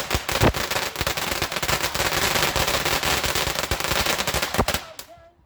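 Firework crackling: a dense, rapid run of small sharp cracks with a few louder bangs mixed in, cutting off suddenly near the end.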